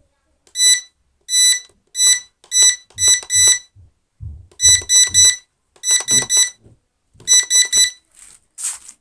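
Electronic beeping from a gimbal-equipped device under a gimbal check: short high-pitched beeps, first singly, then in quick runs of three, with a few low thumps in between. The gimbal stays still, which the owner notes.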